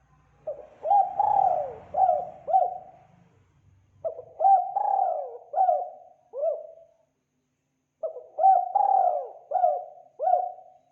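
Spotted dove cooing: three phrases of several short, hooked coo notes, each phrase lasting about two to three seconds, with about a second of silence between phrases.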